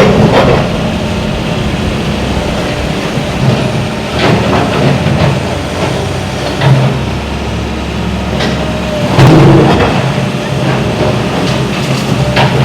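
Heavy demolition machine's diesel engine running steadily while it breaks down a building's wall, with repeated crashes and cracks of breaking wood and masonry, the loudest about nine seconds in. The beams being torn out are water-soaked and rotten.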